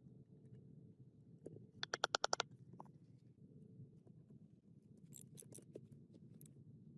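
A quick run of about eight sharp clicks, then a few lighter clicks about three seconds later, over a low steady hum.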